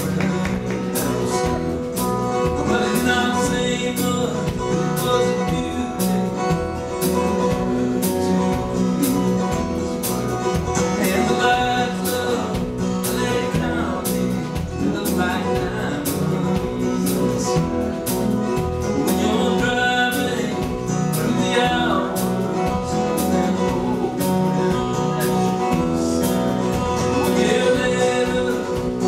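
Live country band playing, guitars prominent, over a steady beat of about two strokes a second.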